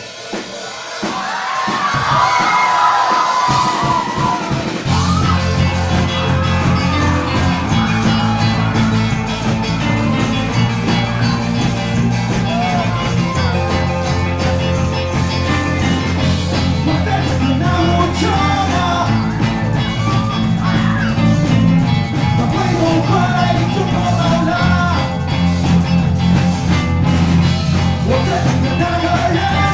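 Live rock band playing the opening of a song; a melodic line leads at first, then heavy bass and the full band come in about five seconds in.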